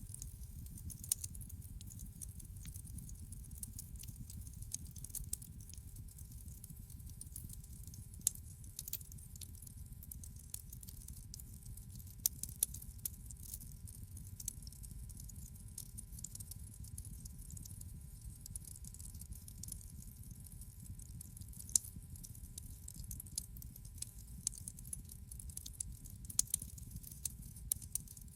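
Wood fire crackling in a fireplace: irregular sharp pops and snaps over a low, steady rumble of the burning.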